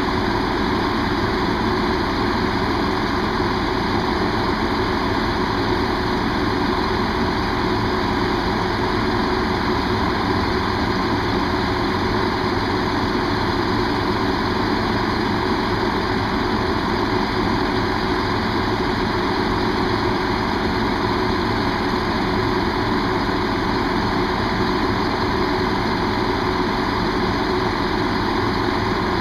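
Diesel train engine idling steadily, a constant low running note that does not change.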